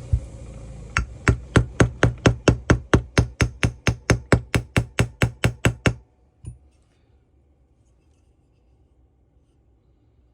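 Rapid, even hammer taps on a metal part of a small two-stroke engine, about four or five a second for some five seconds, then a single tap after a short pause.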